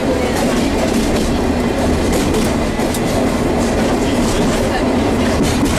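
Passenger train running along the track, heard from inside an open-sided coach: a steady, loud rumble of wheels on rail with frequent short knocks and clatter.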